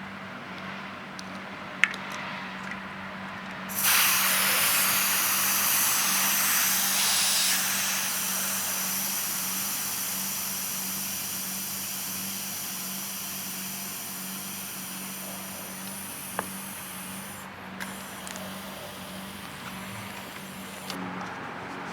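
Air hissing out of a bicycle tyre's valve as the tyre is deflated. The hiss starts suddenly about four seconds in, stays loud for a few seconds, then fades slowly as the pressure drops and dies away near the end.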